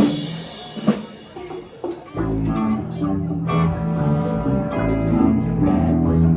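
Live band music: a hit rings away over the first couple of seconds, then electric guitar and bass come in about two seconds in and play on with the drums.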